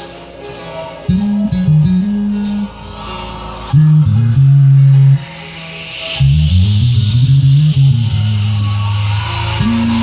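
Bass guitar playing a gospel bass line in short phrases with sliding notes, over accompanying music with a steady high-pitched tick of cymbals.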